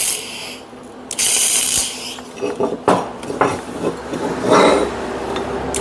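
A short burst of electric welding arc crackle, under a second long and starting about a second in: a tack weld on a steel axe blade. It is followed by scattered knocks and clinks of steel parts being handled.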